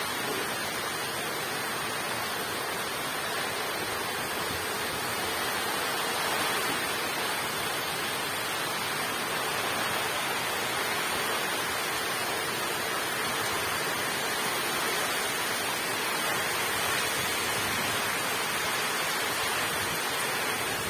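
Heavy rain pouring steadily onto a pond and the surrounding vegetation: a dense, even hiss with no breaks.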